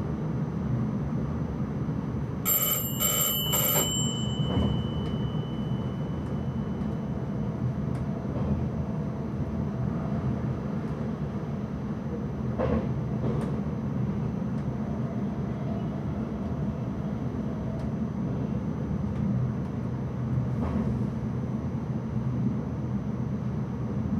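Steady rumble of an intercity train running along the track, heard from the driver's cab. About two and a half seconds in, a bell in the cab rings three quick strikes, and its tone fades over the next few seconds.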